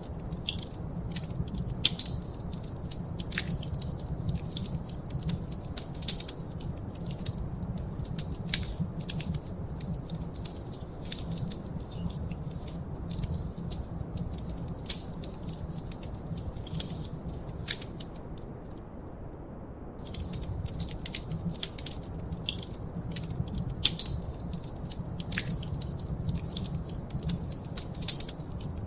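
Wood fire crackling in a fireplace: a steady stream of irregular sharp pops and snaps over a low rumble of the flames. The crackles stop for about a second roughly two-thirds of the way through, then resume.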